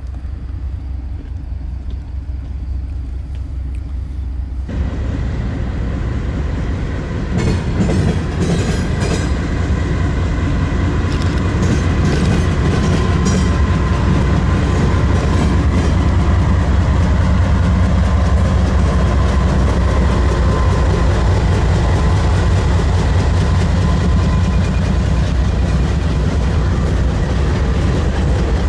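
Freight train passing over a railroad diamond crossing: a low rumble grows louder, then from about seven seconds in the wheels clatter sharply over the crossing, settling into a steady, loud rumble of cars rolling by.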